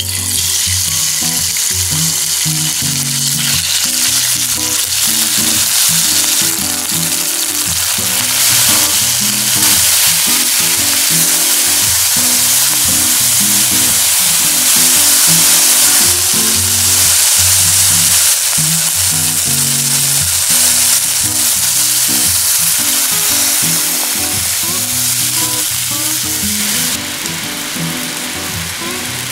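Chicken strips sizzling loudly in hot oil in a nonstick wok as they are stir-fried with chopsticks. Near the end the sizzle eases into the bubbling of broth coming to the boil.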